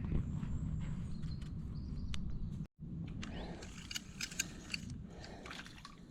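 Outdoor lakeside ambience: a low rumble with faint high chirps, then a brief total dropout partway through, followed by a scatter of sharp clicks and short high chirps.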